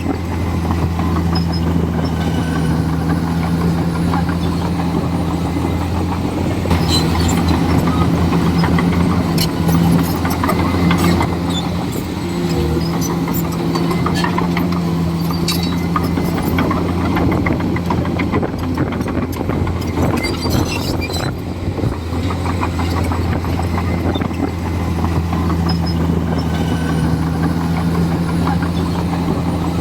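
Komatsu D41E bulldozer's diesel engine running steadily, a little louder for a few seconds about a quarter of the way in, with scattered clanks and cracks that come thickest around then and again past the middle.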